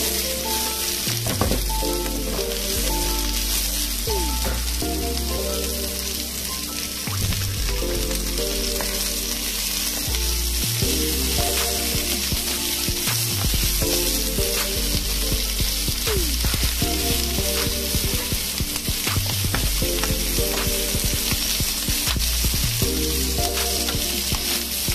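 Diced onion and garlic sizzling in hot oil in a frying pan, stirred now and then with a wooden spatula that makes light scraping ticks against the pan. Background music with a steady bass line plays over it.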